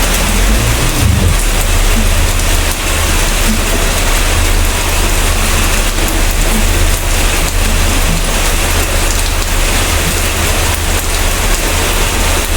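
Steady heavy rain, an even hiss of falling drops, with a low rumble underneath that swells briefly about a second in.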